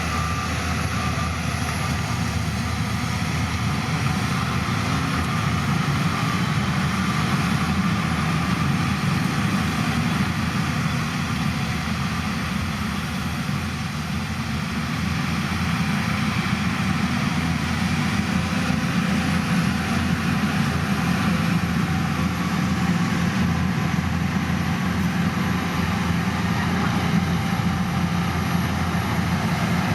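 Heavy diesel engine of earthmoving machinery running steadily, dipping slightly about halfway through.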